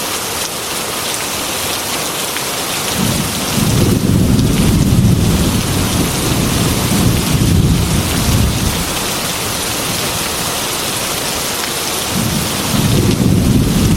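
Heavy rain falling steadily, with thunder rumbling low about three seconds in, dying away after several seconds, and rolling in again near the end.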